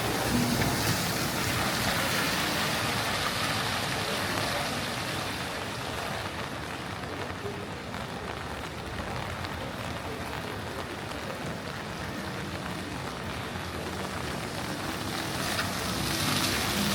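Steady rain falling on a wet city street, with traffic noise that swells louder in the first few seconds and again near the end.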